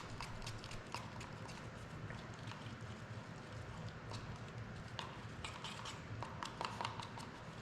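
Fiberglass resin being stirred by hand after the hardener drops go in: faint, irregular light clicks and taps of the stirrer against its container.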